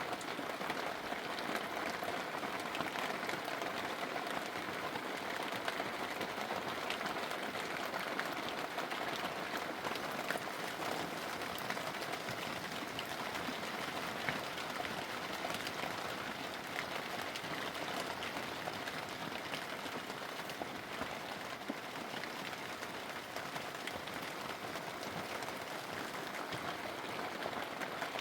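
Steady rain falling and pattering on surfaces, a dense even hiss of many small drop impacts.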